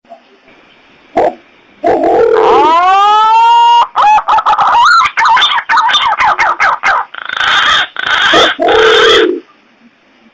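Wild pigeon lure call: a short note, then a long whistle that rises and levels off, a run of quick warbling notes, and three louder, harsher calls near the end.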